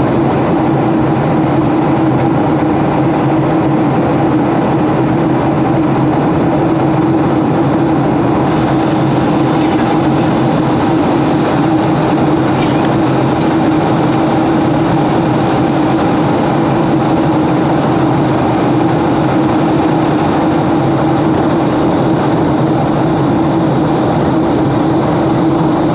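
Steady cabin noise of an airliner in flight: an even rush of engine and air noise with a hum held on one low pitch. A high hiss fades out about six or seven seconds in and comes back near the end.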